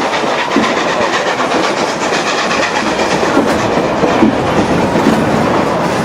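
The Durango & Silverton narrow-gauge train rolling along, with a steady running noise and wheels clicking over the rail joints.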